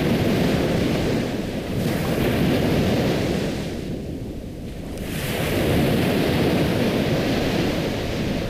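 Ocean waves washing in: a steady rush of surf that swells and falls back in slow surges, with a lull about halfway through.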